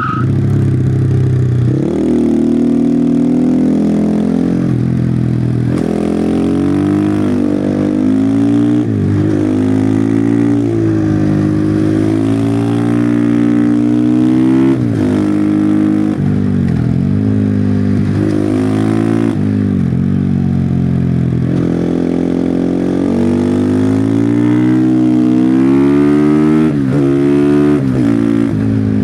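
Husqvarna FE501 single-cylinder four-stroke engine with its stock exhaust, revving up through the gears and falling back off the throttle again and again as the bike is ridden hard through a run of bends.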